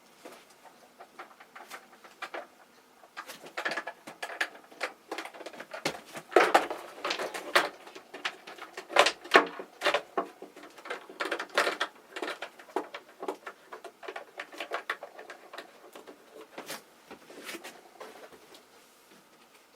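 Irregular clicking, tapping and clattering of small hard objects being handled, louder and busier in the middle and thinning out near the end.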